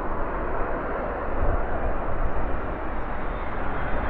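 Boeing 787-8 Dreamliner jet airliner passing close on its landing approach: a steady, dense roar of engine noise that swells a little about a second and a half in. Gusty crosswind is buffeting the microphone, adding low rumble.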